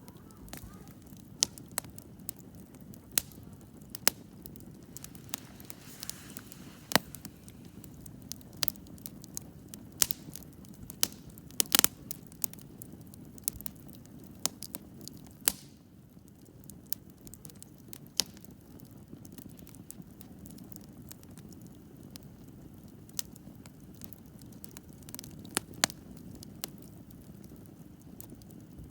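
Wood campfire burning, with a steady low rush of flames and irregular sharp crackles and pops from the burning wood, a few louder pops about halfway through.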